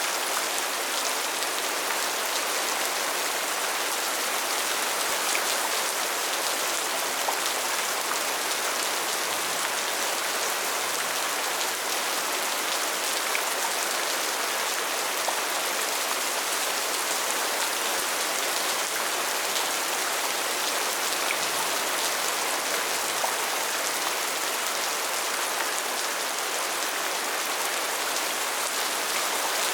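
Steady rain falling, a dense even hiss with many fine individual drop ticks and no pauses.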